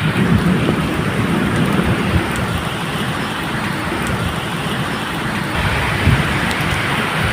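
Steady medium rain falling, with a low, uneven rumble of distant thunder underneath that swells slightly near the start and again about six seconds in.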